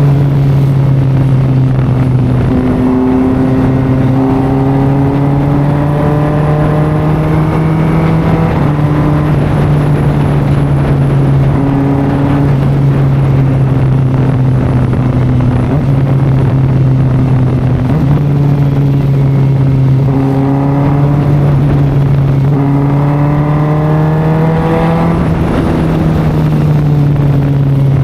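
Kawasaki Ninja ZX-4RR's inline-four engine through an SC Project exhaust, running at a steady cruise with wind rush. Its note climbs for several seconds under acceleration twice, about three seconds in and again past twenty-two seconds, then settles back.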